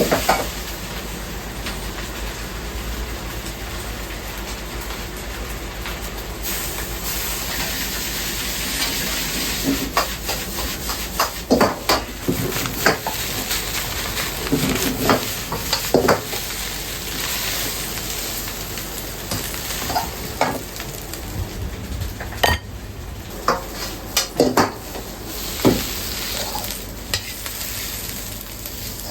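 Food sizzling and frying in a pan, with a metal utensil stirring, scraping and knocking against it many times at irregular intervals. A steady low hum runs underneath.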